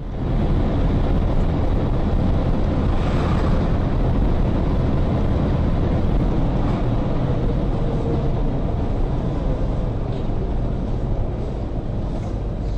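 Steady vehicle driving noise: a loud road and engine rumble from a moving vehicle.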